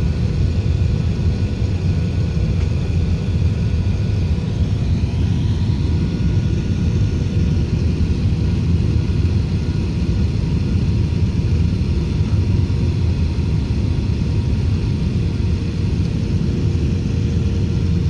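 Steady cabin noise inside an Airbus A380 on approach: a deep, even rumble of engines and airflow with a few faint steady tones over it.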